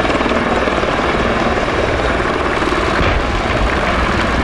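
Military helicopter flying close by, its rotor blades chopping in a rapid, steady beat over loud engine noise.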